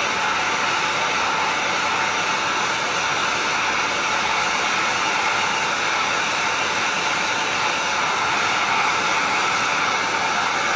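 Electric heat gun running steadily, a loud, even rush of blown air with a faint steady whine in it.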